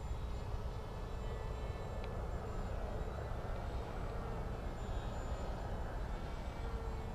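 RC Bixler model plane in flight, its electric motor and propeller running steadily with a faint whine over a constant low rumble.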